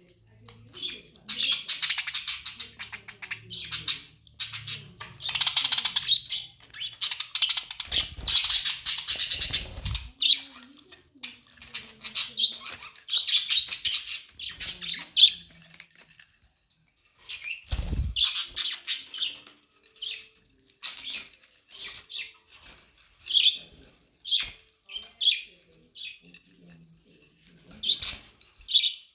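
Pet budgerigars chattering and chirping in quick, high bursts, on and off throughout. Two spells of low thumping or bumping break in, once about a third of the way through and again a little past the middle.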